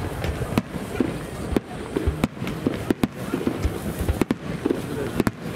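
Aerial firework shells of a starmine display bursting overhead: a string of sharp bangs at irregular intervals, about one or two a second, over a steady rumble.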